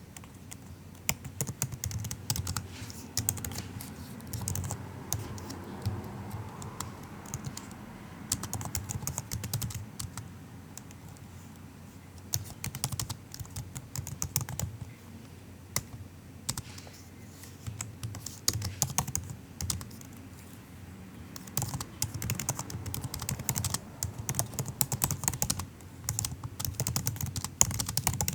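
Typing on a MacBook's built-in keyboard: soft, quick key clicks in runs, with short pauses between bursts.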